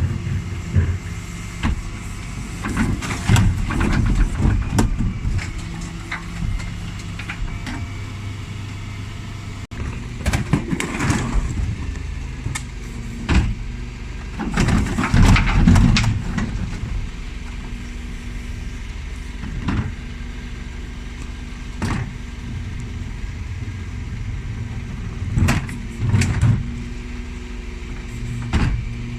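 Bin lorry's diesel engine running steadily, with irregular clusters of clattering and bangs from wheelie bins being handled and emptied at the bin lift.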